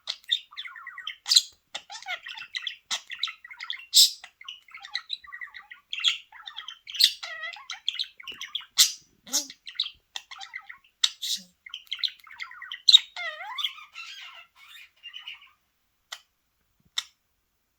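Pet budgerigar warbling: a fast, continuous chatter of chirps, squawks and sharp clicks. It mostly stops about fifteen seconds in, leaving a few single clicks.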